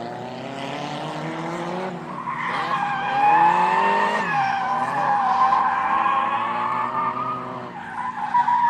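Drift car's engine revving up and down under a long, loud tyre squeal that starts about two seconds in as the car slides. The squeal breaks off near the end and starts again.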